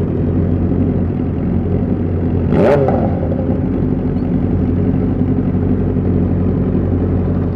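Motorcycle engine running steadily at a low, even idle, with a brief louder sound that rises and falls in pitch about two and a half seconds in.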